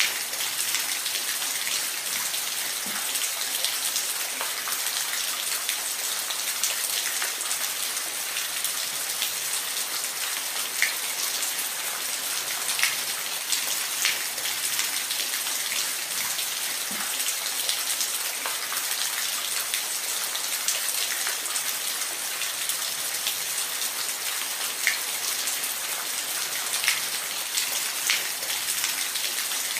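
Steady rain falling, with the short ticks of single drops landing now and then over an even hiss.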